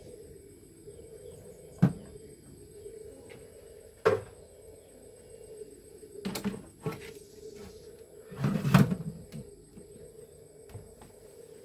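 A few separate sharp knocks and clatters a couple of seconds apart, with a louder burst of clatter near the end, over a steady faint hum.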